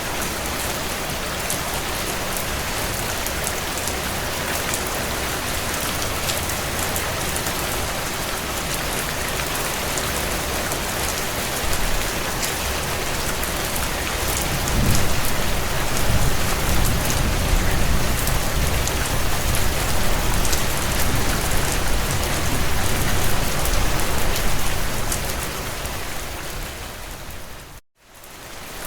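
Heavy rain falling on a tin roof: a dense, steady patter of drops. A little past the middle, a low rumble swells in beneath it for about ten seconds. Near the end the sound fades out to silence for a moment, then fades back in.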